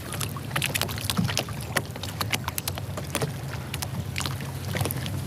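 Small waves lapping and slapping against a kayak hull in quick, irregular splashes, over a steady low hum.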